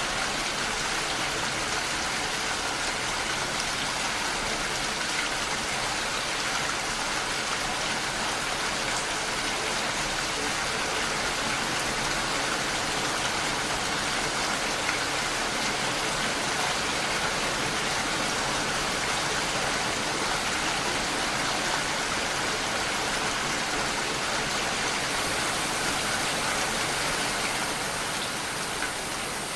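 Steady rain falling as an even hiss with no distinct drops standing out, growing a little quieter near the end.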